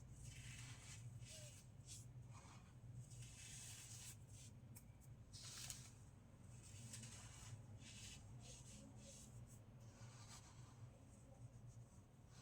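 Fresh compressed baking soda crunched and crumbled, a faint, irregular run of gritty crackles with the loudest crunch about halfway through.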